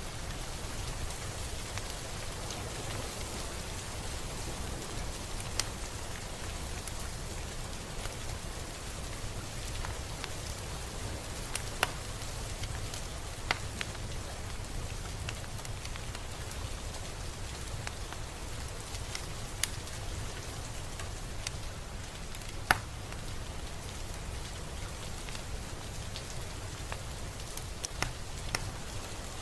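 Steady rain falling, with a few sharp single drop impacts standing out every several seconds.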